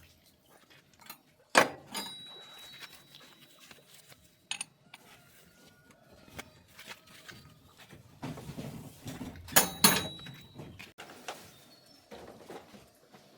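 Metal knocks and clanks from tools on tractor parts during clutch repair: a loud strike about a second and a half in, a few lighter knocks, then a busy patch near the end with two loud strikes close together, some leaving a brief ringing tone.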